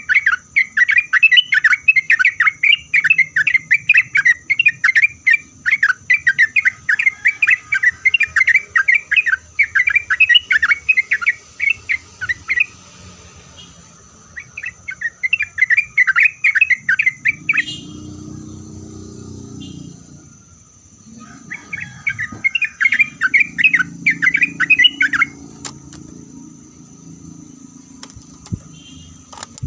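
Yellow-vented bulbul singing in rapid, loud chattering runs: one long run for the first twelve seconds or so, then two shorter runs after pauses. A steady high-pitched hum sits underneath, and a low hum comes in during the second half.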